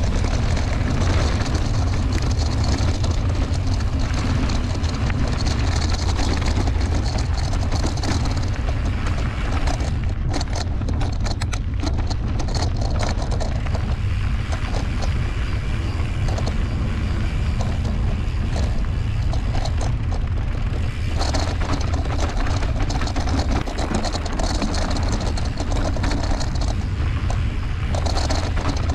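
Mountain bike riding over a dirt trail: wind rushing on the microphone, with tyre noise and the rattle of the bike over rough ground. The rattling clicks are clearest about a third of the way through.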